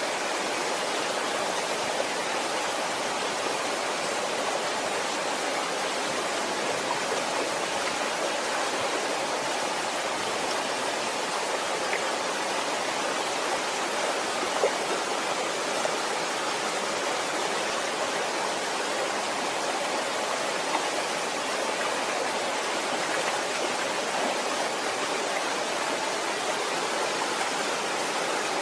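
Waterfall: a steady, even rush of falling water, with a few faint splashes or drips.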